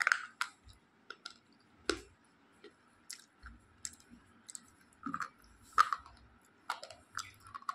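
A slate pencil bitten off and crunched between the teeth: a sharp snap as it breaks, then irregular crunches and clicks of chewing, with one more loud crunch about two-thirds of the way through.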